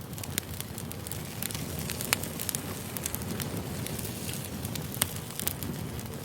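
Campfire burning: wood crackling and snapping at irregular moments over a steady low rumble of flame, with a few louder pops.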